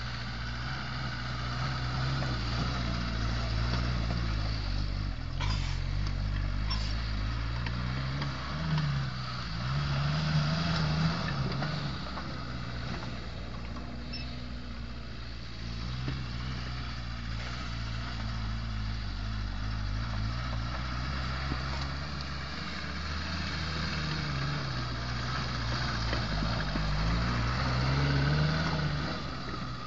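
Suzuki Samurai's engine running as the 4x4 is driven over sandy ground. It revs up and back down twice, about a third of the way in and again near the end.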